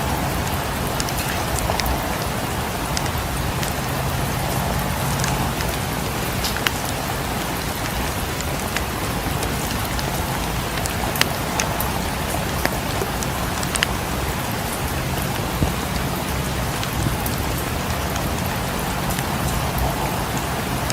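Steady rain against a cabin window, with a wood fire in a fireplace crackling now and then in sharp, scattered pops.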